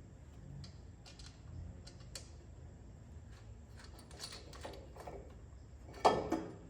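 Scattered light clicks and taps of tools and parts being handled, then one sharp knock about six seconds in that rings briefly and fades.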